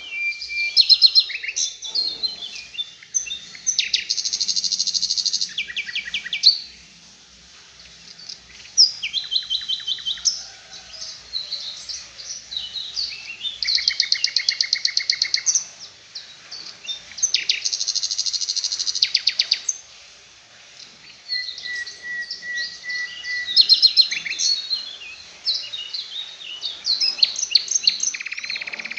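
Songbird singing bursts of very fast trills and chattering, rapid-fire phrases, a 'tembakan' song of the kind played to train murai batu and cendet birds. The phrases are several seconds long, with short breaks between them.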